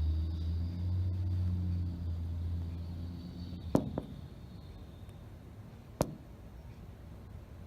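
Garbage truck engine running with a low rumble that fades away after about three and a half seconds. Three sharp knocks: two close together near the middle and one about two seconds later.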